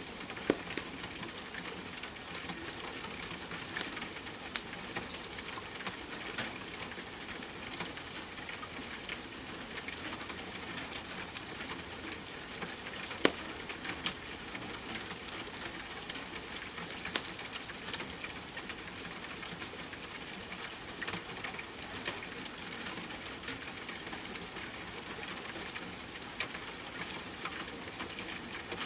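Wood fire crackling, with frequent small sharp pops and one louder pop about halfway through, over a steady hiss of rain.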